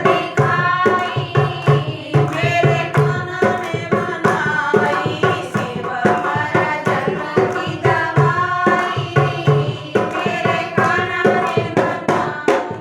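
Devotional Hindi bhajan: a woman singing over a steady, quick hand-drum beat.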